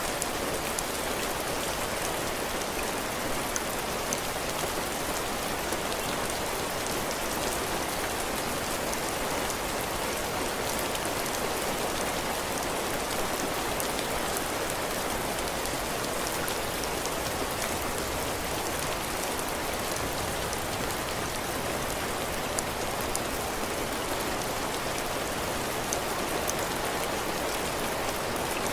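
Heavy rain falling steadily on a cabin porch, drops pattering on the roof and the ground, with fine scattered ticks of single drops over an even hiss.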